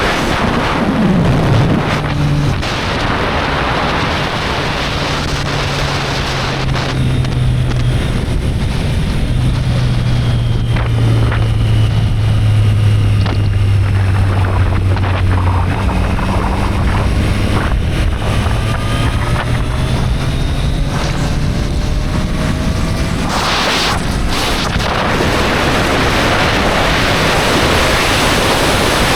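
Triumph Street Triple 765 R's inline three-cylinder engine running under heavy wind rush on the microphone while riding, its note holding and then climbing in pitch through the middle of the stretch.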